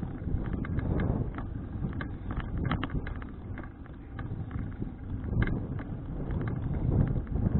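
Wind buffeting the microphone while riding a folding bicycle, a low rumble that swells and fades. Many irregular sharp clicks and rattles run through it, typical of a bike shaking over a rough road.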